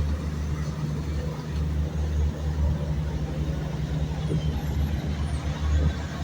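Low, steady rumble of a motor yacht's engines running on the water.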